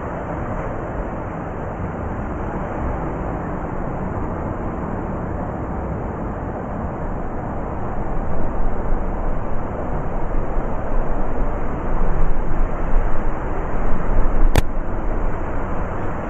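Blizzard wind blowing in a steady rushing roar, turning gustier and louder from about halfway through. One sharp click near the end.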